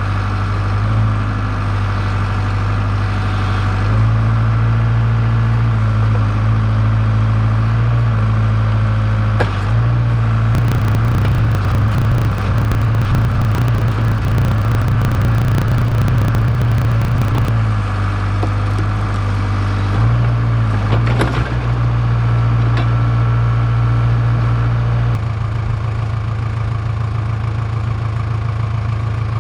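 Case 580K backhoe's diesel engine running under load, its note stepping up and down as the hydraulics work. About ten seconds in there are several seconds of rapid clicking and clatter, and near the end the engine drops to a lower, rougher note.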